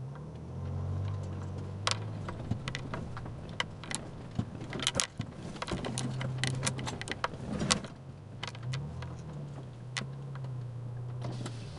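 Toyota FJ Cruiser's V6 engine heard from inside the cabin, running low and rising and falling a little in pitch while driving slowly over a rutted mud track. A scatter of sharp clicks and knocks comes from about two to eight seconds in.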